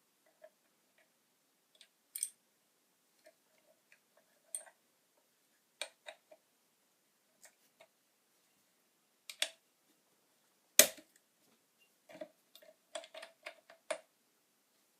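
Irregular small clicks and light knocks, like hand work with parts and tools, with one louder knock about eleven seconds in and a quick run of clicks near the end.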